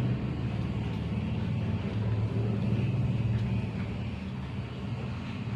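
A steady low motor-like rumble.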